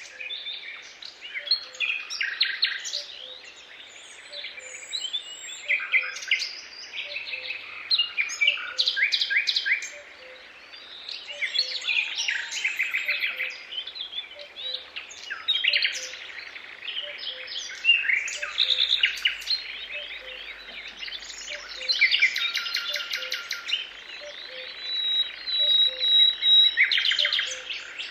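Several songbirds singing at once, a dense mix of overlapping chirps and rapid trills. Underneath, a faint low note repeats a little faster than once a second.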